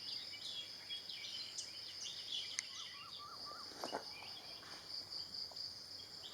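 Tropical forest ambience: a steady high-pitched insect drone with many quick bird chirps and a short run of repeated call notes, plus a sharp click and a soft thud.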